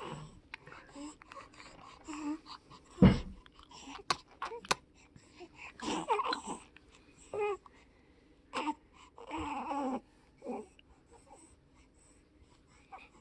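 Baby making short grunts, squeaks and little whimpering sounds in separate bursts, with a bump about three seconds in and a few sharp clicks soon after.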